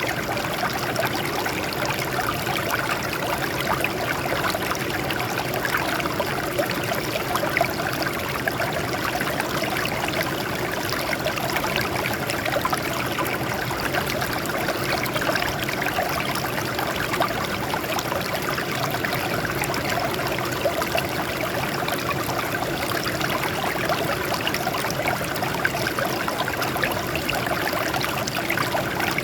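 Water running steadily over rocks, a continuous splashing and trickling stream.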